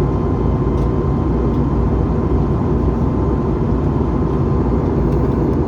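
Jet airliner cabin noise in flight: the engines and rushing air heard from inside the cabin as a steady, dense rumble, heaviest in the low end, with a faint steady hum above it.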